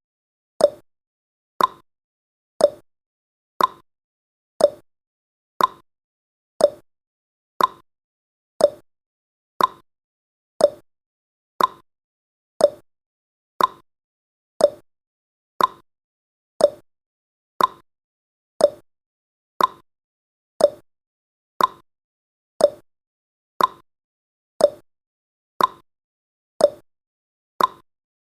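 Clock tick-tock sound effect ticking off the seconds of a countdown: one short tick each second, alternating between a higher tick and a lower tock.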